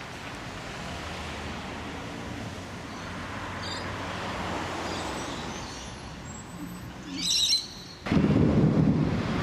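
Steady outdoor hiss with a couple of bird chirps, then about eight seconds in a sudden loud crack of a nearby lightning strike, followed by heavy low thunder rumble.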